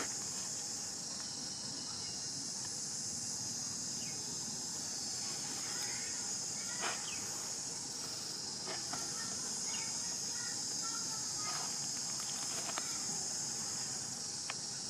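Steady high-pitched chorus of insects, crickets or cicadas, with a few brief faint chirps and clicks scattered through it.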